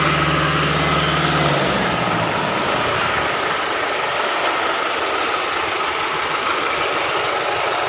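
Ahmedabad Metro train running: a steady low hum that fades out about two seconds in, over an even rushing noise that carries on throughout.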